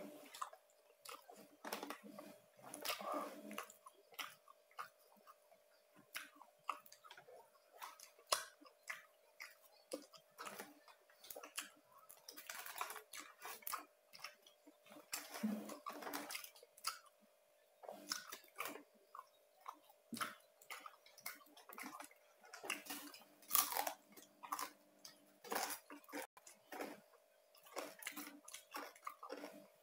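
Close-up chewing and biting of crunchy roast pork, the crisp crust crackling in many short irregular crunches, with a faint steady hum underneath.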